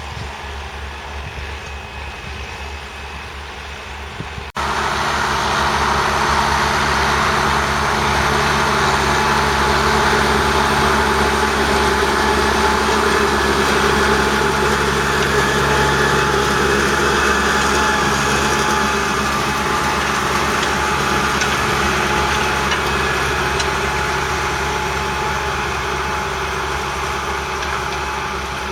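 1975 Massey Ferguson 1200's 5.8-litre six-cylinder diesel engine running steadily. About four and a half seconds in, the sound cuts abruptly to a louder, fuller engine note that holds, easing off slightly near the end.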